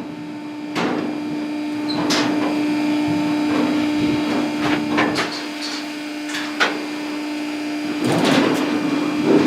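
Metal clanks and knocks of cattle-handling equipment such as a squeeze chute and gates, a dozen or so at irregular intervals, over a steady hum.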